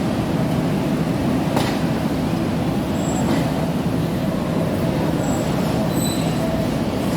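Passenger train running: a steady, loud rumble of wheels on the rails, with a sharp knock about a second and a half in and a few brief, faint high squeals later on.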